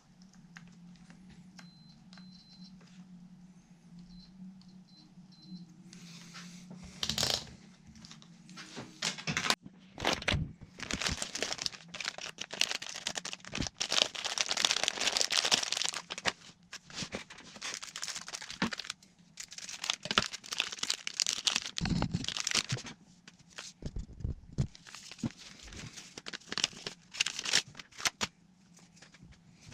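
Crinkling and tearing of thin material being handled, in irregular bursts with small clicks, starting about seven seconds in after a steady low hum.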